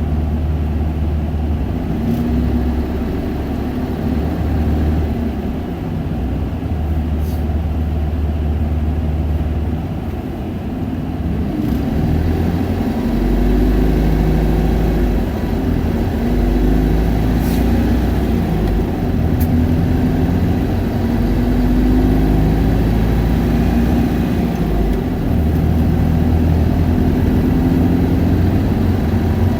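Isuzu Erga 2KG-LV290N2 city bus's diesel engine running while the bus is under way, its note shifting up and down as it accelerates and eases off, over a low rumble. A few faint clicks are heard.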